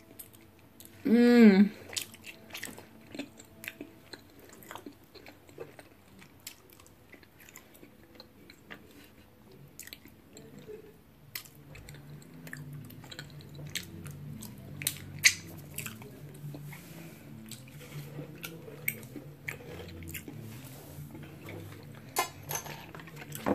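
Close-up mouth sounds of a person eating soft mochi: wet chewing smacks and small clicks throughout, with a short voiced 'mm' about a second in.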